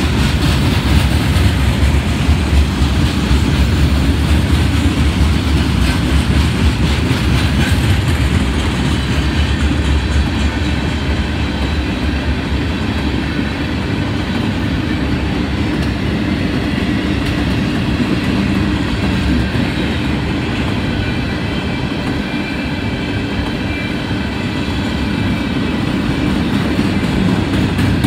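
Freight train cars rolling steadily past close by: CSX flatcars loaded with steel coils, then empty bulkhead flatcars. A faint high whine joins in about halfway.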